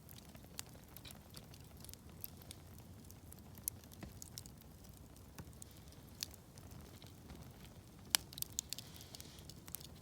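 Wood campfire crackling: irregular sharp pops and snaps over the low, steady rumble of the burning fire, with the loudest pop and a short flurry of snaps about eight seconds in.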